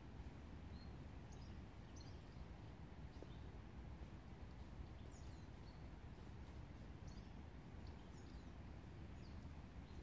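Faint woodland birds giving short, high chirps every second or so, over a steady low background rumble.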